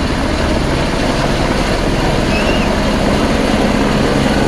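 Helicopter running close by: loud, steady rotor and engine noise with a fast low flutter.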